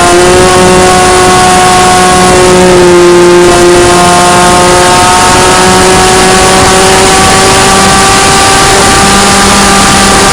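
RC plane's motor and propeller heard through its onboard Mobius camera: a loud, steady whine over wind rush. The pitch dips slightly a few seconds in, then climbs slowly toward the end.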